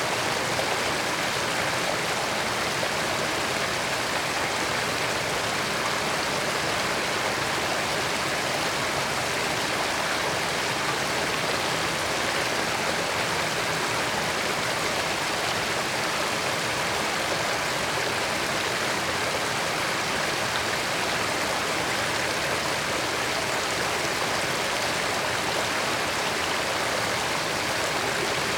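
Creek water running and babbling over rocks in a steady, even rush.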